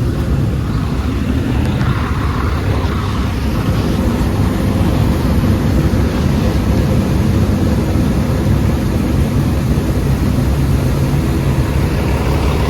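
Truck engine running steadily, a loud, even low drone.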